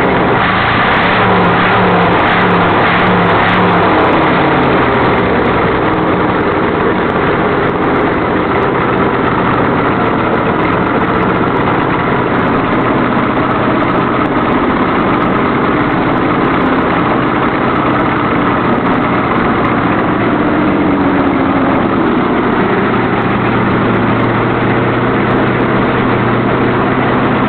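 Early-1970s Chevrolet V8 on its first run, firing straight out of open exhaust ports with no headers or exhaust pipes, extremely loud. It runs steadily, its speed shifting slightly a few times.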